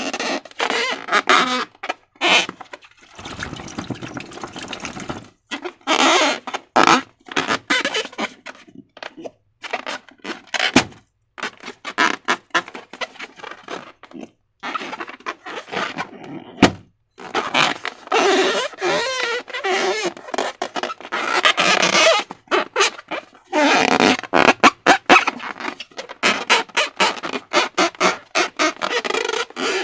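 Slime and rubber balloons being handled and squeezed: sticky squelches and rubbery squeaks in quick, irregular clusters with short pauses between them.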